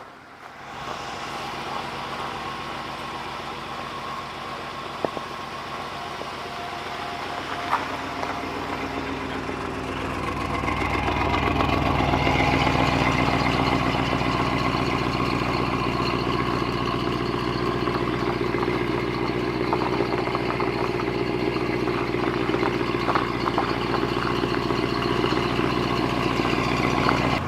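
1960 Ford Thunderbird's 352 V8 running, brought up to a higher, steady speed about ten seconds in and held there to clear carbon out of the engine.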